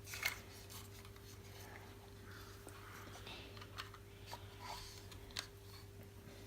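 Faint scattered clicks and taps of small plastic parts being handled, the sharpest about a third of a second in and again near the end, over a steady low hum.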